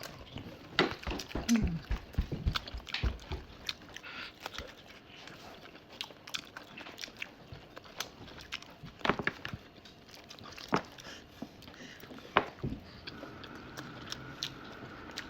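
A person eating close to the microphone: chewing and biting food, with scattered short clicks and smacks.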